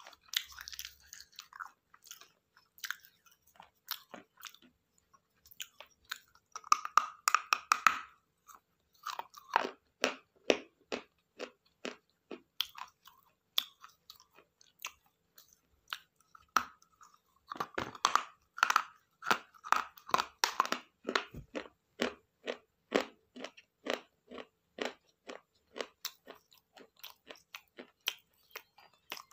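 A person biting and chewing hard, crunchy food in a long run of crisp crunches, busiest about seven seconds in and again around eighteen to twenty-one seconds.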